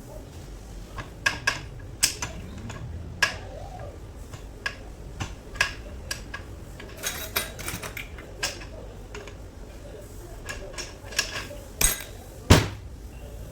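Irregular metallic clinks and knocks of tools and gearbox parts being handled during a gearbox overhaul, with one louder knock near the end.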